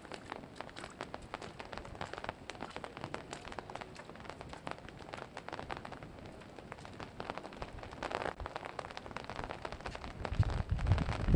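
Flowing water at a dam, a dense crackling, splashing hiss like heavy rain. Louder low rumbling buffeting comes in near the end.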